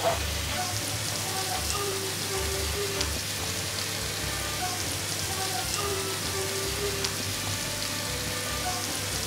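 Haddock fish balls frying in plenty of butter in a nonstick pan: a steady sizzle with fine crackling ticks.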